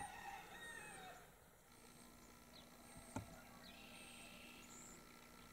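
Near silence in open country: faint, high chirps of distant small birds recurring now and then, with a single sharp click about three seconds in.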